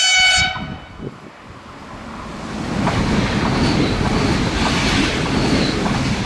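A Renfe Media Distancia passenger train sounds a short horn blast, then runs past close by. Its rumble builds and holds, with a few wheel clacks and a thin high whine over the top.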